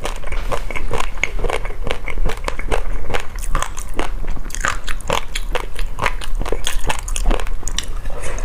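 Close-miked eating: a person chewing and crunching through a dessert of crunchy noodles and jelly pearls, with irregular crisp crackles several times a second and wetter chewing between them.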